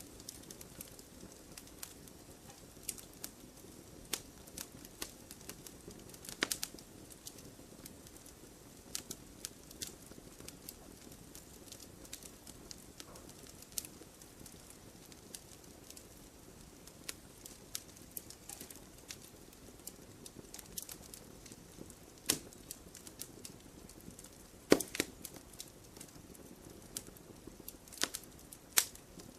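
Wood fire in a fireplace crackling, with irregular sharp pops and snaps over a faint steady hiss; the loudest pops come about a quarter of the way in and several more in the last third.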